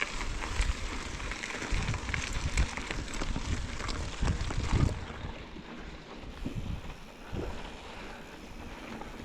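Wind buffeting the microphone, with irregular low rumbles and knocks for the first half that ease off after about five seconds.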